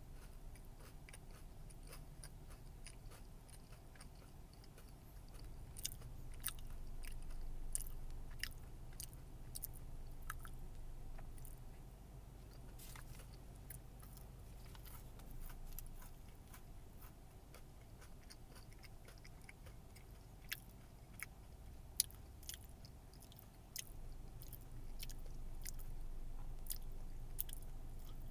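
Close-up chewing of a crunchy peanut and crisp-rice protein chewy bar, with scattered small crunches and mouth clicks over a steady low hum.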